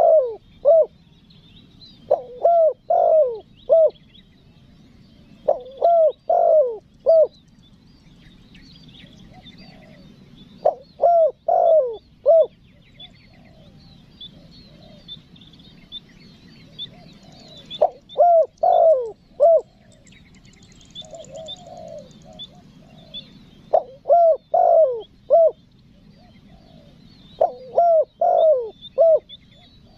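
Spotted dove cooing its calling song: short phrases of three or four coos, repeated every few seconds about seven times. Small birds chirp faintly and high in the background.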